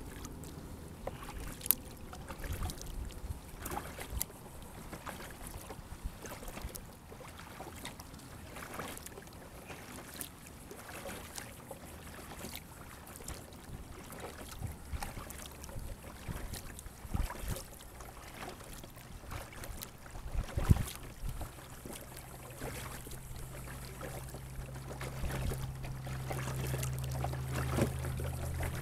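Sit-on-top kayak paddling: water splashing and dripping off the paddle blades, with irregular light knocks against the plastic hull. A steady low hum comes in about two-thirds of the way through and grows louder near the end.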